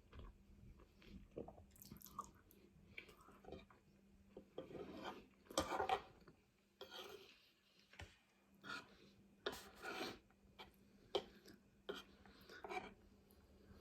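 A person chewing food with soft, wet mouth sounds, in short irregular bursts.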